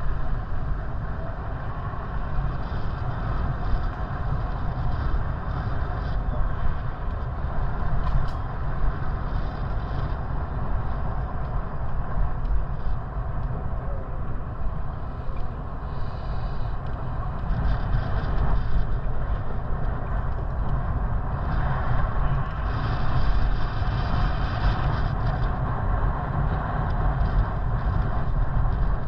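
Wind buffeting the microphone and road noise while riding a bicycle, a constant low rumble that rises and falls, with occasional brief hiss.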